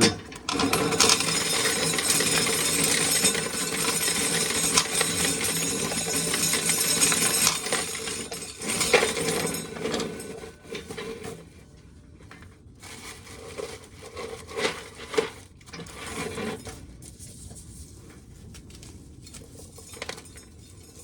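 Dry shelled corn kernels pouring and rattling into a container: a heavy rush of kernels for about seven seconds, then thinning to scattered rattles that die away.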